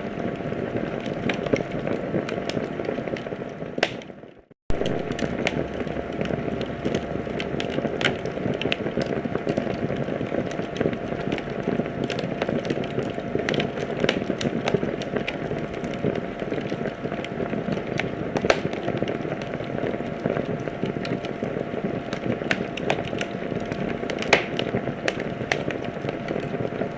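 Wood fire crackling in a fireplace: a steady hiss dotted with frequent sharp pops and snaps. About four seconds in the sound fades away, drops out for a moment, then starts again.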